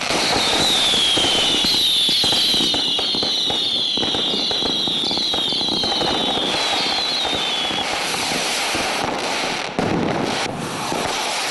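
Fireworks going off: many whistling fireworks screeching at once, each whistle falling in pitch, over a dense crackle of pops and bangs. The whistles die out about eight seconds in while the crackling goes on.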